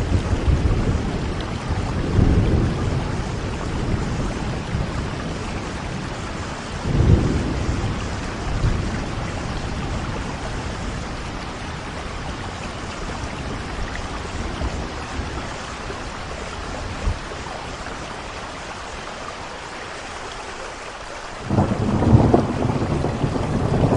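Heavy rain falling steadily, with rolls of thunder rumbling low: one about two seconds in, another near seven seconds, and a louder rumble breaking in suddenly near the end.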